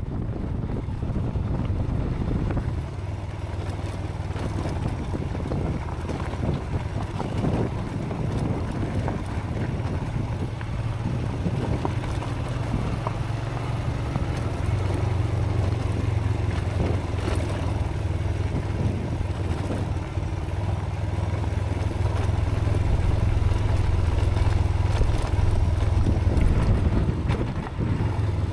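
Motorcycle engine running steadily while riding a rough gravel track, with wind buffeting the helmet-mounted microphone.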